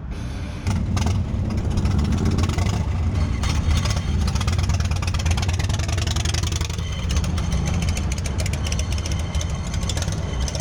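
Motorcycle engine running with a loud, low, pulsing rumble that gets louder about a second in.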